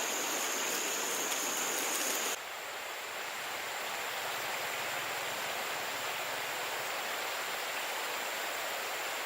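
Steady rushing of flowing water, with a thin high whine over it; about two and a half seconds in the sound changes abruptly, a little quieter, and the whine fades to faint.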